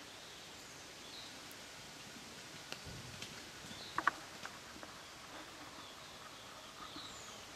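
Quiet outdoor ambience with faint, short bird chirps, heard about a second in, again about four seconds in, and near the end. A few sharp clicks, the loudest a quick pair about four seconds in.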